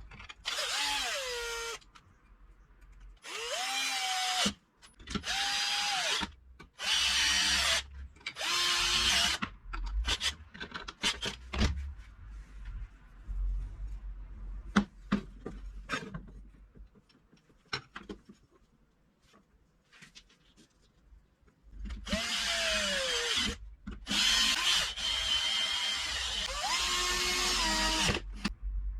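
Power drill/driver driving small 4 mm bolts into bearing beds. It runs in about four short bursts in the first ten seconds, with the motor pitch rising and dropping as the trigger is squeezed and released. Scattered clicks and taps follow, then two longer runs near the end.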